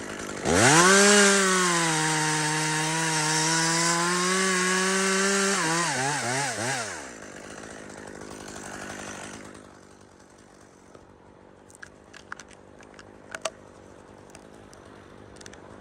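Gas chainsaw revved to full throttle and cutting spruce for about five seconds, its pitch sagging slightly under load. It then gives a few quick throttle blips and drops back to a low idle. About ten seconds in the engine sound fades, leaving only a few light clicks.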